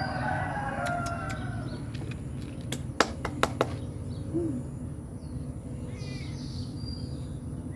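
Small birds chirping, busiest in the first second and again about six seconds in, over a steady low rumble. Three sharp clicks come about three seconds in.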